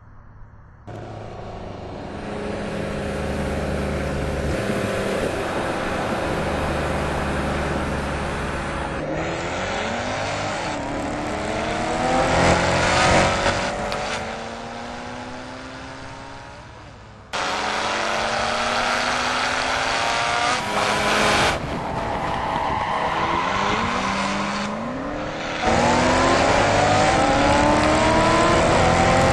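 High-revving car engines accelerating hard, each rising in pitch and dropping back as it shifts up through the gears. The sound changes abruptly several times, cut between passages of different cars.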